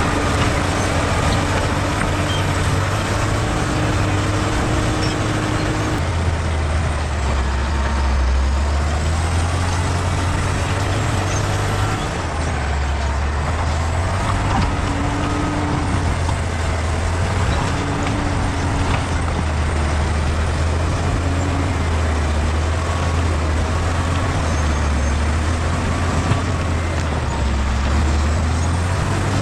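Diesel engine of a bulldozer running steadily under work, its low note dropping and rising again several times.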